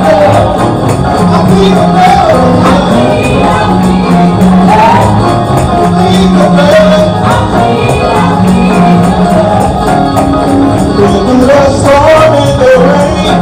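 Gospel music played and sung live, with a tambourine keeping the beat over a steady bass line and voices singing.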